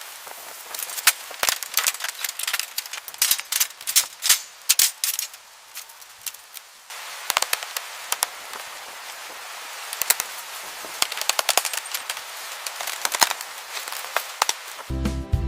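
Irregular sharp cracks and snaps over a steady hiss, with an abrupt cut about seven seconds in. Music comes in near the end.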